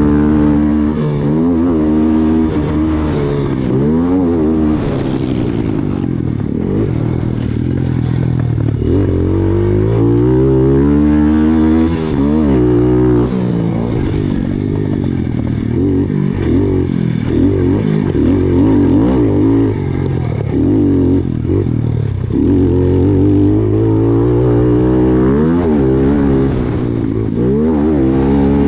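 Pit bike engines running hard, their pitch repeatedly climbing and dropping back with throttle and gear changes. Through the middle more than one bike can be heard at once.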